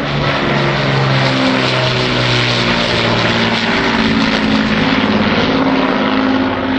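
The Avro Lancaster bomber's four Rolls-Royce Merlin piston engines run loudly in a flypast. The engine note sits lower in the first half and climbs higher in the second.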